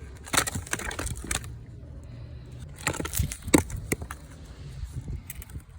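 Footsteps crunching on ice-crusted ground, in two bursts of sharp crunches, over a steady low rumble.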